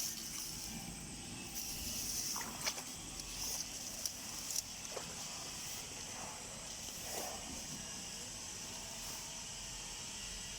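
A steady, high-pitched insect chorus, with a few faint clicks and rustles over it.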